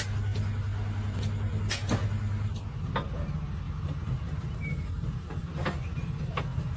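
An engine running steadily, its hum shifting to a higher, rougher note about two and a half seconds in, with a few sharp metallic knocks and clinks of tools working on the gearbox parts.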